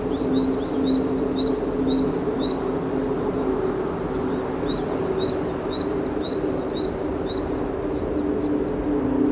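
Small bird chirping in two runs of short, high, paired chirps, about two to three a second, with a pause between the runs. Under it, a steady low two-note drone and an even hiss.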